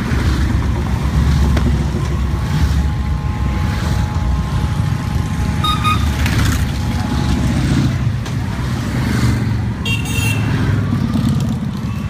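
A continuous stream of motorcycles riding past, many engines running together without a break, with two short high beeps about six and ten seconds in.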